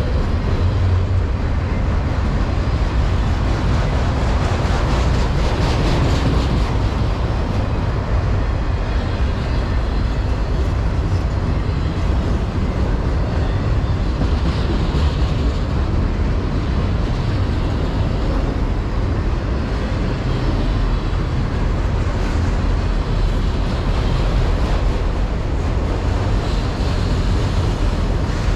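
Norfolk Southern manifest freight train rolling past, a steady, continuous rumble of wheels on rail.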